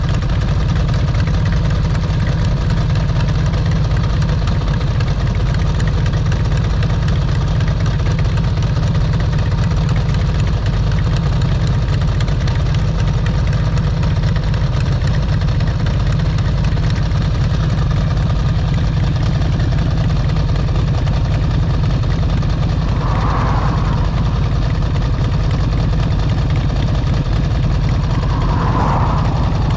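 Motorcycle engine running steadily at an even level, with two short higher-pitched sounds a few seconds apart near the end.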